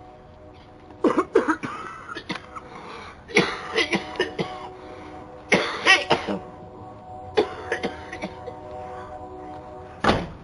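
A man coughing and clearing his throat in about five separate bursts, over a faint steady hum.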